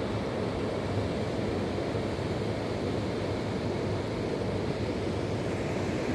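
Fast-flowing mountain river rushing steadily over its bed, a constant even roar of water.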